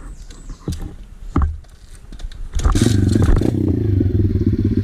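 A few short knocks and clatters, then about two and a half seconds in a pit bike's engine comes up suddenly under throttle and runs loud and steady.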